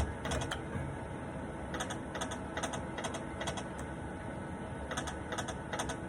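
Light, irregular clicking a few times a second at a poker machine, over a steady electronic hum of gaming-room machines, between bursts of the machine's music.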